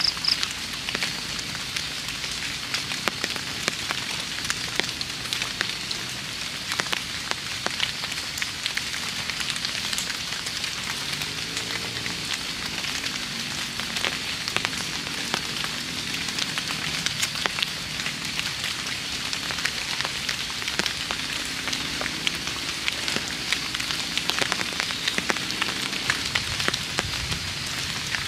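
Light rain pattering steadily, with many small drop ticks.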